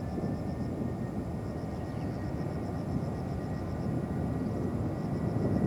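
Distant jet airliner engines rumbling steadily, growing a little louder toward the end.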